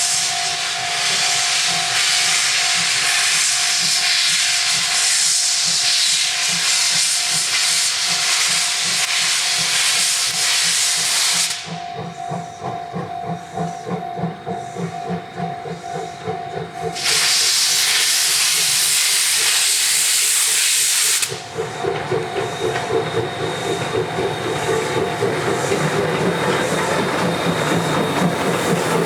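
C58 steam locomotive pulling away from a standstill, venting steam from its open cylinder drain cocks in long loud hisses. There are two long hisses, the first about eleven seconds and the second about four, with rhythmic exhaust chuffing between them and carrying on through the end.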